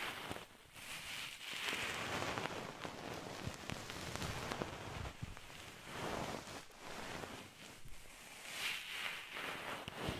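Close-miked rustling and crackling, made up of many fine clicks, swelling and fading in slow waves every few seconds: an ASMR trigger sound.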